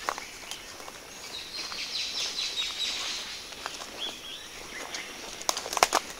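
Forest birdsong: a bird gives a quick run of short, high chirps about a second in, then one more call later. Footsteps crunch on the forest floor, with a cluster of sharp, loud crackles near the end.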